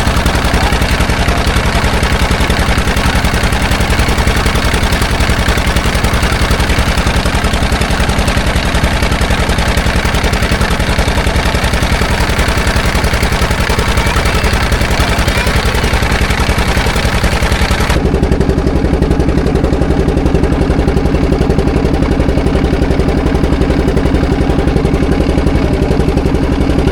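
A small engine running steadily at close range with a rapid, even putter. About eighteen seconds in, the high hissing part of the sound drops away while the low engine note carries on.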